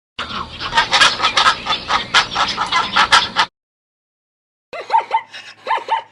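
Two short clips of animal calls with a silent gap between them: first a dense run of quick, overlapping calls, then a few short chirps falling in pitch.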